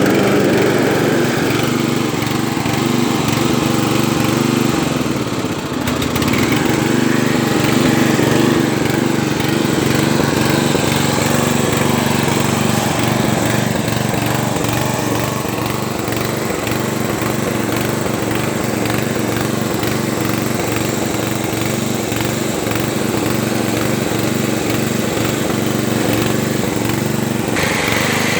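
11 hp Briggs & Stratton engine of a Craftsman riding lawn tractor running steadily after its first start-up, with a brief dip in engine speed about five seconds in before it picks back up.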